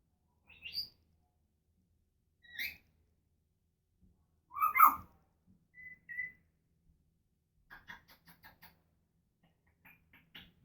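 An African grey parrot whistling and calling in short separate bursts: a rising whistle, a louder squawk near the middle, two brief high whistled notes, then a quick run of clicking chirps.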